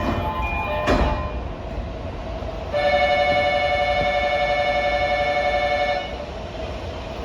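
Train rumble in the cab of a Sobu Line train, with a clunk about a second in. From about three seconds in, a steady electric signal tone with two pitches rings for about three seconds, then stops.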